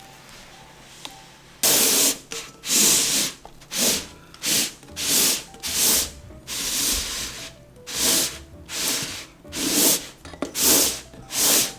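A utensil mixing thick cake batter in a bowl: a run of separate rubbing, scraping strokes starting about two seconds in, roughly one stroke a second, over soft background music.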